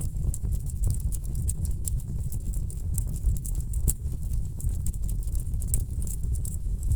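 Wood fire burning in a fireplace: a dense run of quick, irregular crackles and pops over a steady low rumble of the flames.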